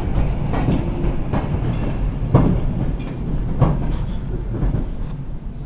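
Railway train running along the track: a steady low rumble broken by sharp clicks and knocks, roughly one a second, from the wheels passing over rail joints.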